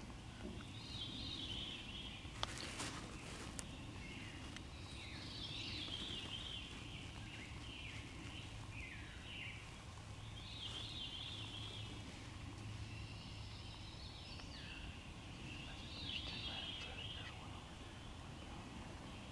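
Wild birds singing, a phrase every few seconds, some with quick falling notes, over a faint steady low hum, with a sharp click about two and a half seconds in.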